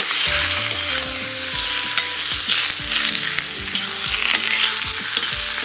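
Halved quail frying in butter in a kazan, sizzling steadily as they brown, with scattered sharp clicks from a utensil turning them.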